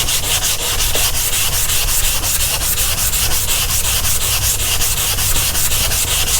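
180-grit sandpaper on a sanding block being rubbed by hand over primed fiberglass bumper panels, in quick, even back-and-forth strokes, about four a second. This is block sanding the primer smooth to take out the 80-grit scratches before the final primer coat.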